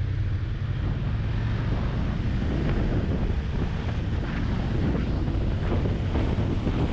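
Wind buffeting the microphone on a moving motorcycle, a rough steady rush with the engine's low drone underneath.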